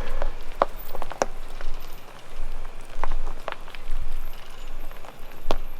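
Tyres of a 4Runner crunching over rocks and gravel as it creeps down a rough trail, with scattered sharp clicks and knocks from stones over a steady gritty hiss.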